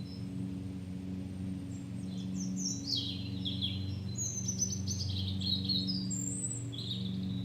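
Birds chirping in a quick flurry of high twittering calls over the steady low drone of a lawn mower engine running.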